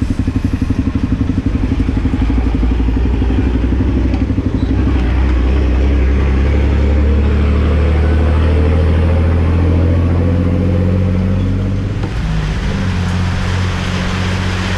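Honda CRF250L's single-cylinder engine running at low revs as the bike rolls in, then idling steadily, with a shift in its note about twelve seconds in.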